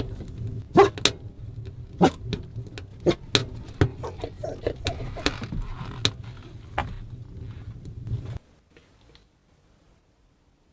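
Irregular knocks and clicks, as of objects being handled, over a steady low rumble. All of it cuts off abruptly about eight seconds in.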